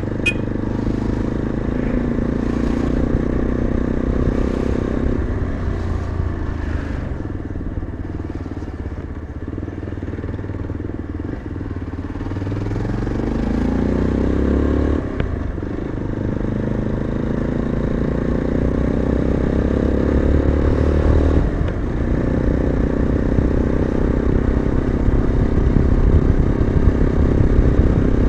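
Yezdi motorcycle's single-cylinder engine running under way, heard from the rider's seat. Its revs climb and drop sharply twice, at upshifts about halfway and about three-quarters through, then it pulls steadily.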